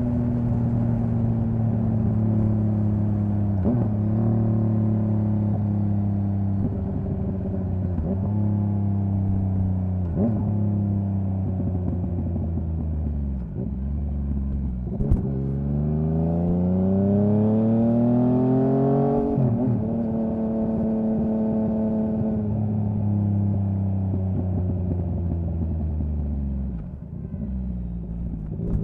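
Yamaha MT-09's inline three-cylinder engine and exhaust under way. It mostly runs at a steady pitch, with brief dips every few seconds. About two-thirds of the way in it revs up in one long rising pull, and it falls off near the end before picking up again.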